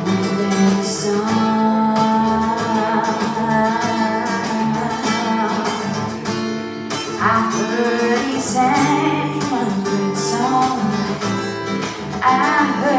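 Acoustic guitar strummed live with a voice singing over it, most clearly in the second half.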